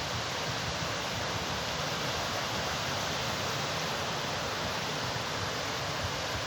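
Steady, even rush of sea surf washing on the shore.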